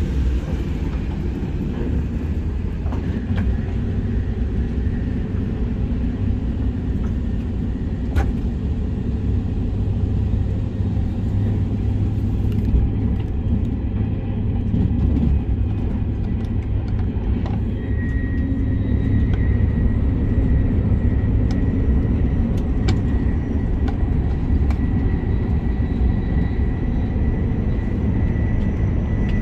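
SR 120000-series high-speed electric train running, heard from inside the passenger car as a steady low rumble with a few faint clicks. A faint steady high tone comes in about two-thirds of the way through.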